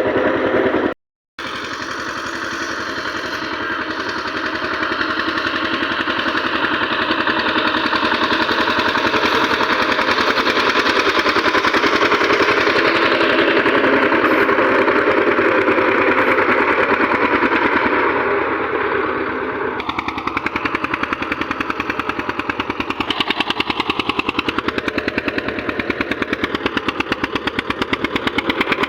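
Eicher tractor's diesel engine running steadily with a fast, even exhaust beat. The sound drops out for a moment about a second in, and the engine note shifts slightly around twenty seconds in.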